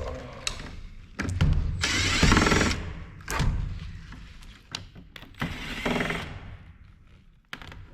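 A cordless drill-driver running in two short bursts, unscrewing screws from a monitor's metal frame, the first about a second in and the second past the middle. Sharp clicks and knocks of screws and metal parts being handled come in between.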